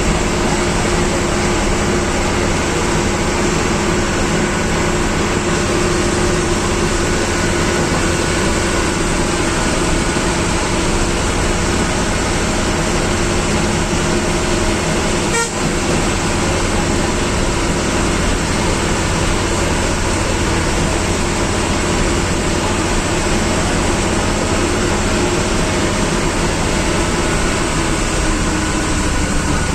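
Bus engine and road noise heard from the driver's cabin, running steadily, with a brief dropout about halfway through.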